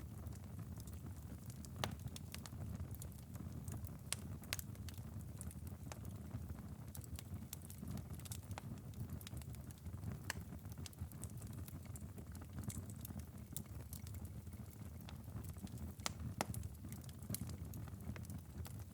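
Ember bed of a wood-burning fireplace crackling late in a long burn: irregular sharp pops and ticks over a steady low rumble.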